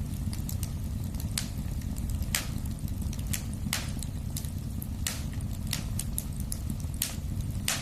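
Wood fire burning in a fireplace: a steady low rumble of flames with sharp crackles and pops of burning wood at irregular intervals, about a dozen of them.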